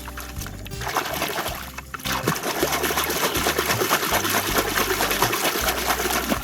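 Water splashing and trickling, over background music with a steady bass line.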